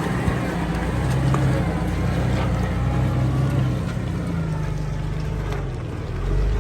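Off-road vehicle engine running at low revs, a steady low rumble that swells and eases slightly as it crawls.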